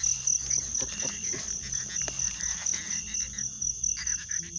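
Chorus of insects with a steady, rapidly pulsing high trill, and a lower call repeating about once a second. A few faint knocks sound in between.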